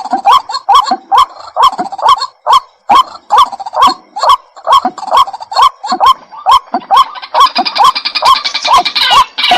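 White-breasted waterhen calling: a loud, rapid run of repeated croaking notes with a click at the start of each, about three a second. A higher, faster chattering series joins about seven seconds in.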